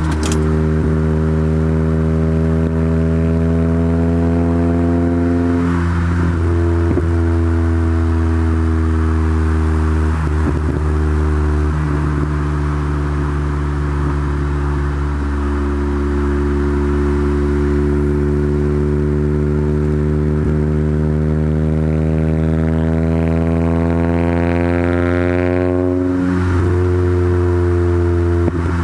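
Acura Integra GSR's 1.8-litre DOHC VTEC four-cylinder, fitted with Type R camshafts and an aftermarket exhaust, pulling through the gears under acceleration. The engine note climbs steadily and drops at each upshift, twice in the first half. A long pull in the second half climbs higher and ends in a shift near the end.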